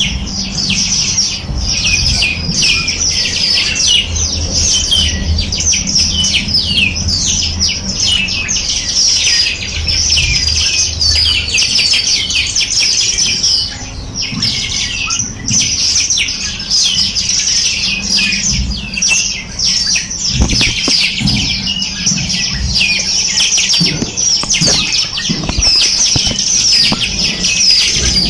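Many small birds chirping and twittering at once: a dense, unbroken chorus of quick high notes and short trills. A low hum lies under the first half, and a few soft low thumps come near the end.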